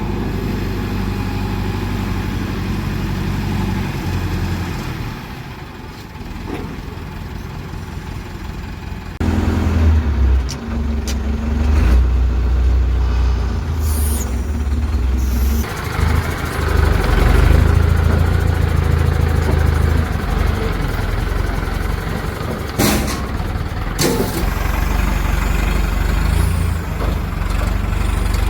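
Heavy diesel engine of a crane or truck running, first at a steady idle, then revving up about nine seconds in and holding at higher revs under load. Two short sharp sounds come close together near the end.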